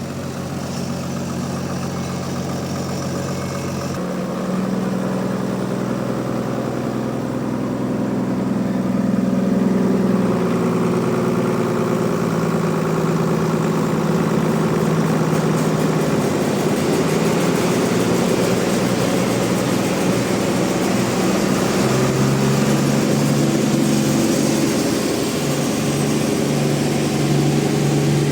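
A sawmill engine running steadily with a low hum, shifting in pitch a few times.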